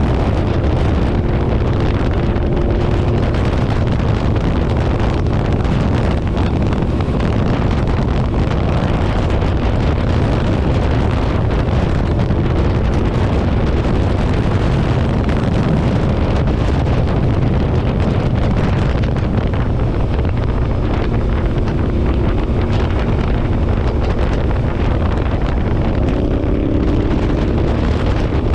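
Motorcycle riding at speed: wind rushing over the microphone with the engine running steadily beneath it. Near the end the engine note rises.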